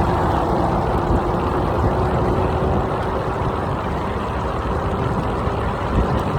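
Steady rush of wind buffeting the microphone, with road noise, while riding an electric scooter.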